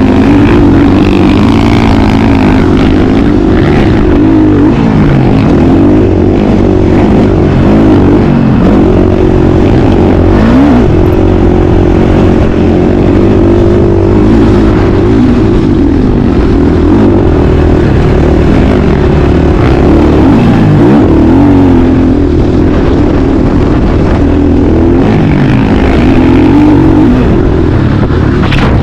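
Motocross bike engine revving up and down over and over, its pitch climbing and dropping every second or two through gear changes, very loud and close.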